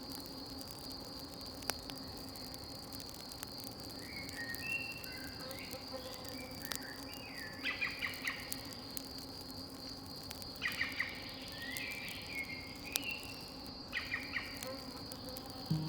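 Insects chirring steadily at a high pitch, with birds calling in short chirping bursts several times, and a few sharp pops from the campfire.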